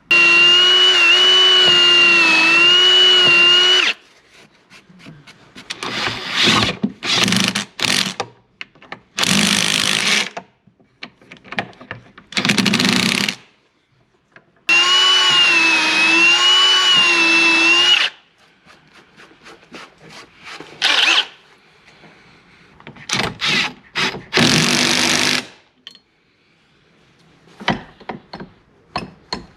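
Power drill driving screws into a wooden bench top. Its motor runs in two long runs of about four and three seconds, one at the start and one about halfway through, with its pitch wavering under load. Several shorter bursts come between and after the long runs.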